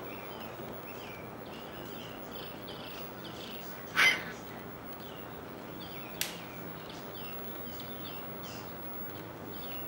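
Birds chirping over and over in short calls, against a steady faint background hiss. A sudden short louder sound comes about four seconds in, and a sharp click about two seconds later.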